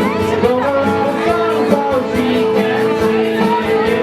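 A rock band playing a song, with guitar to the fore.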